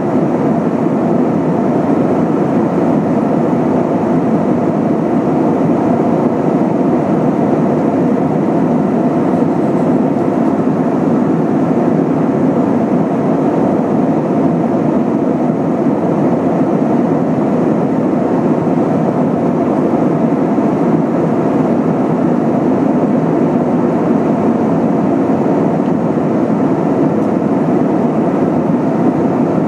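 Steady roar inside the passenger cabin of an Airbus A320-232 under way, the noise of its IAE V2500 turbofan engines and the air rushing past the fuselage, holding an even level throughout.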